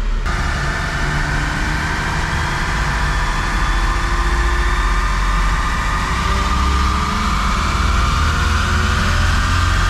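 Lexus SC300's stock 2JZ-GE inline-six pulling under load on a chassis dyno. It starts in earnest about a quarter-second in, and the revs then climb steadily from about 3,000 to past 4,000 rpm, the automatic held in gear without kicking down.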